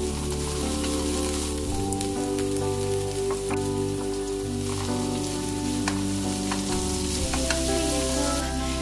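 Green onions sizzling in hot oil in a nonstick wok, stirred with a wooden spatula that clicks against the pan now and then, as bacon and diced chicken breast are slid in. Soft instrumental music plays underneath.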